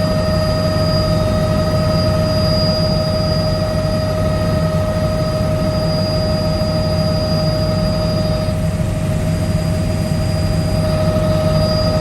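Helicopter in flight: a steady low rotor and engine drone with a constant high whine over it. The highest parts of the whine drop away for a couple of seconds after the middle, then return.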